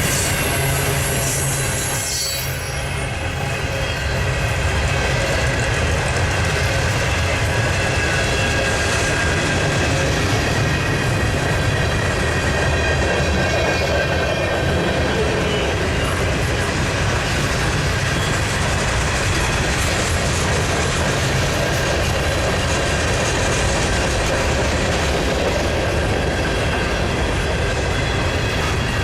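A train running steadily, its railcar wheels on the rails giving a continuous rumble with thin, high squealing tones over it.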